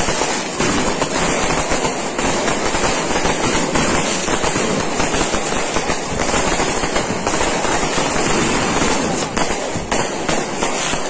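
Dense, continuous crackling of many firecrackers and fireworks going off at once, the bangs overlapping without a pause.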